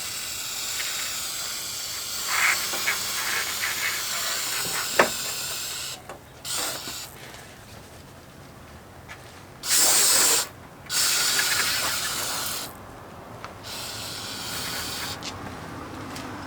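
Aerosol wasp spray jetting onto a wasp nest: a long steady hiss for the first six seconds, then several shorter, louder blasts, with a few faint clicks during the first blast.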